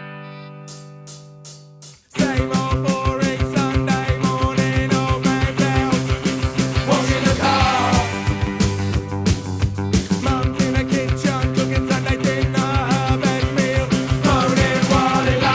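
Punk rock recording: a held electric guitar chord with a few drum hits, then about two seconds in the full band comes in loud with driving drums, bass and electric guitar.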